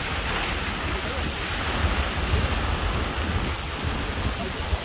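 Steady heavy rain falling on the river and the boat, with a low rumble underneath.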